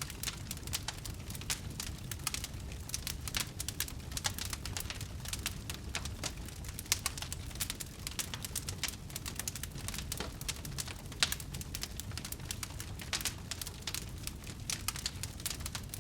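Fire crackling in a fireplace: dense, irregular small pops and snaps over a low steady rumble, with a few sharper pops about seven and eleven seconds in.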